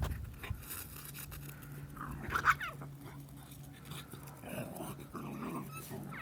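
A dog whimpering, with one pitched whine about two and a half seconds in, over a faint steady low hum.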